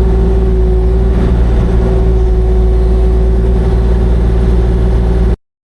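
Kubota KX040-4 mini excavator's diesel engine running steadily at working speed, with a steady whine over a deep rumble. It cuts off abruptly about five seconds in.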